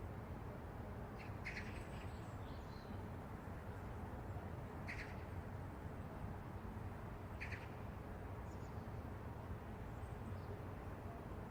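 Short bird calls, about one and a half, five and seven and a half seconds in, over a steady low rumble of city background noise.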